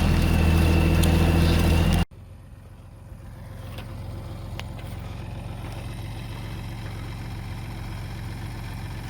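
Post-hole auger's engine running steadily while the auger is stuck in hard-pack clay. About two seconds in the sound cuts off sharply, and a quieter, steady engine idle follows.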